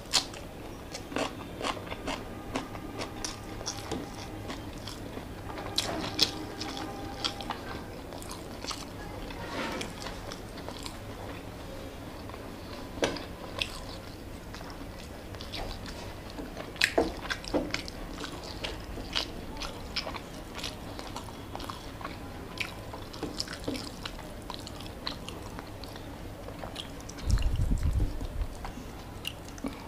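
Close-miked chewing and biting of rice and chicken eaten by hand, with many short wet mouth clicks and smacks. Near the end, a muffled low thump lasting about a second.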